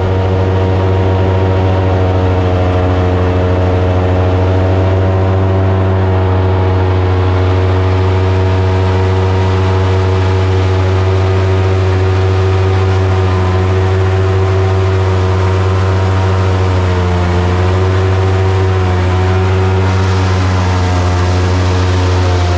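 Boat engine running steadily at constant speed, its pitch dipping slightly and recovering about three-quarters of the way through.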